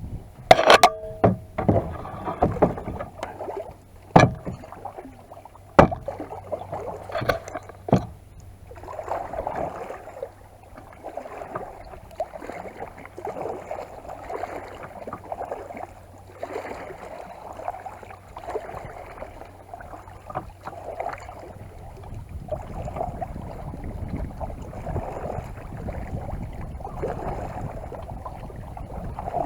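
Kayak paddle strokes in the water, a swish about every second, after a few sharp knocks of the paddle in the first several seconds. A low rumble joins in for the last few seconds.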